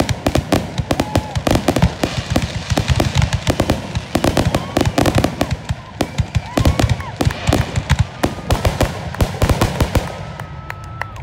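Fireworks display: aerial shells bursting in a dense, rapid run of bangs and crackles, thinning out near the end.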